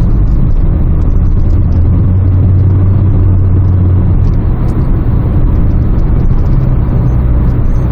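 Kia Lotze Innovation sedan's engine and road noise heard inside the cabin while driving, a steady low drone that eases off about four seconds in.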